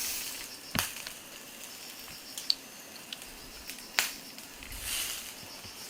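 Yakitori grilling over charcoal in a fire-pit stand: faint crackling and brief hissing swells, with two sharp clicks about three seconds apart and a few lighter ticks.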